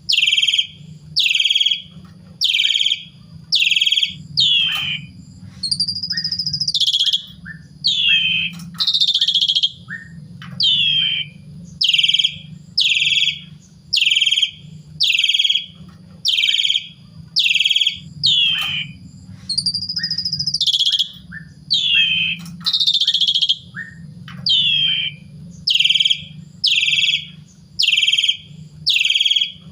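Asian pied starling (jalak suren) singing: short downward-sweeping calls repeated a little faster than once a second, broken twice by longer, higher whistled phrases, over a low steady hum.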